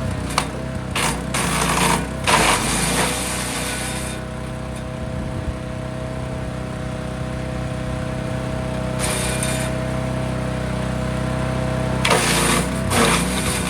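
Forest Master FM8DD wood chipper running steadily, with bursts of harsher chipping noise as branches go through: several in the first four seconds, a short one about nine seconds in, and a longer one near the end.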